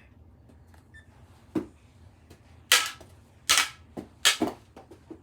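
A quick run of sharp knocks and slaps from knee-hockey play: mini hockey sticks and the ball striking. There are about eight to ten hits, uneven in spacing, and the loudest three fall between about two and a half and four and a half seconds in.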